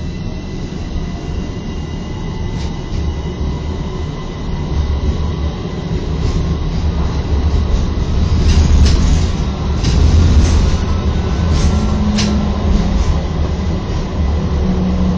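Tram running along its rails with a steady low rumble that grows louder partway through, and a quick run of clicks and knocks from the wheels over the track in the second half.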